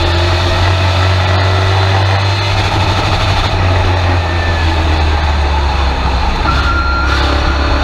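Race truck's engine running loud and steady from inside the cab, holding an even speed with no revving up or down.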